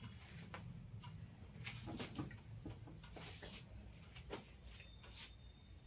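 Faint scratching and tapping of a pen writing, in short strokes separated by pauses, over a low steady hum.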